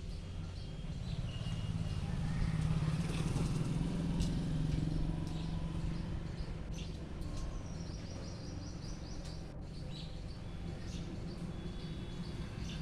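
A steady low rumble like a vehicle engine, swelling for a few seconds and easing off, with short bird chirps over it and a quick run of high chirping notes about two-thirds of the way in.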